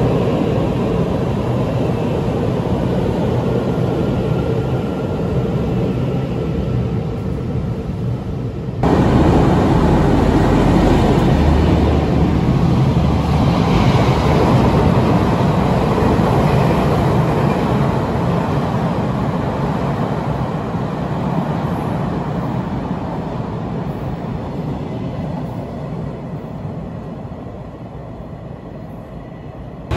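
For the first nine seconds, a TRA EMU800 electric multiple unit rumbles along an underground platform. Then, after an abrupt cut, a louder freight train of loaded open wagons hauled by a diesel locomotive passes through, wheels and wagons rumbling, before fading away over the last several seconds.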